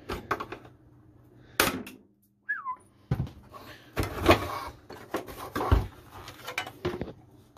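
Plastic housing parts of a refrigerator ice dispenser being handled and pried apart: a run of sharp clicks, knocks and clatter, with one short squeak that falls in pitch.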